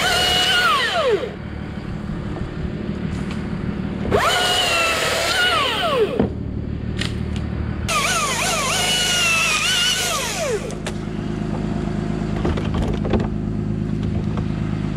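Chainsaw cutting in three bursts, each starting abruptly, holding a high whine and then falling away as the throttle is released. A steady engine drone runs underneath.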